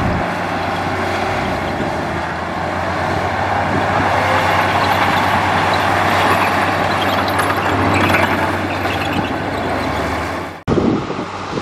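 Heavy diesel earthmoving machinery running steadily, an engine drone under a rough mechanical haze. Near the end the sound cuts off abruptly and gives way to wind buffeting the microphone.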